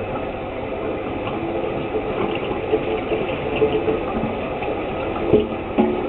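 Water running steadily from a tap, with a low hum in the pipes, and a few short knocks near the end.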